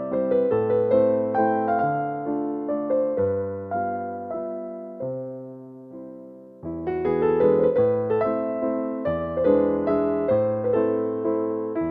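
Background piano music: gentle piano notes struck in a flowing pattern, thinning and fading about six seconds in before fuller playing resumes.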